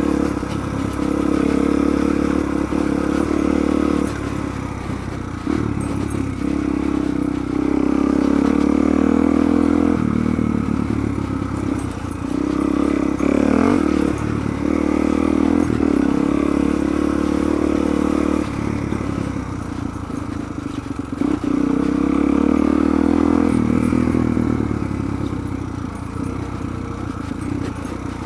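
Suzuki DR-Z400's single-cylinder four-stroke engine being ridden hard, the throttle opened and rolled off again and again so that the engine note surges and drops every few seconds.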